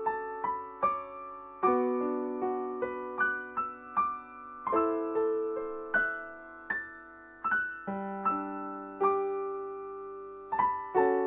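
Solo piano background music: a gentle melody of single notes and chords, each note struck and left to ring and fade.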